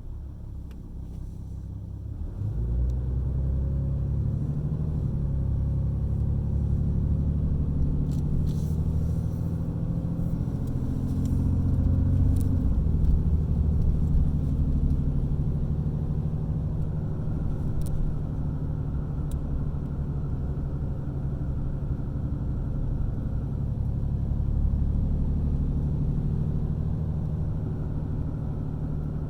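A vehicle's engine running with a steady low rumble that gets louder about two and a half seconds in, with a faint higher whine partway through.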